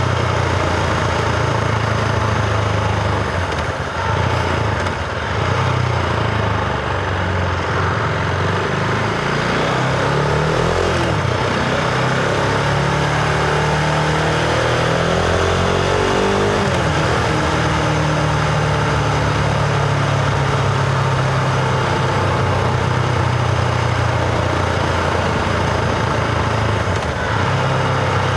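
Husqvarna Vitpilen 701's single-cylinder engine running under way, with wind rushing past the microphone. The engine note dips briefly about four seconds in and shifts in pitch several times through the middle as the throttle and gears change.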